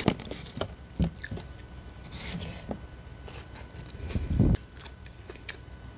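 Close-up mouth sounds of a person chewing salad with the mouth closed. There are scattered clicks of a metal fork in a clear plastic takeaway container and a dull thump about four and a half seconds in.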